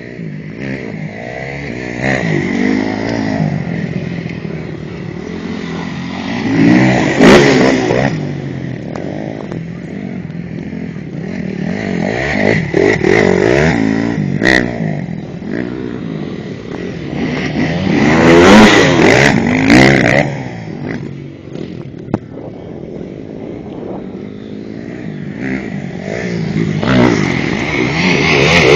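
Dirt bike engine revving and easing off repeatedly as the motocross bike rides, its pitch rising and falling, loudest three times: about a quarter, two-thirds and near the end.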